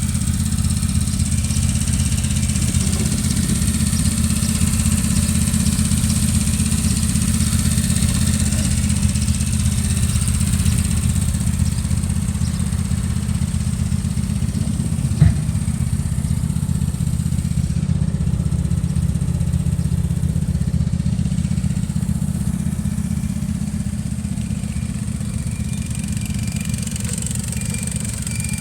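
Walker zero-turn mower's 20 HP Kohler Command V-twin OHV engine running steadily, with a single sharp knock about halfway through.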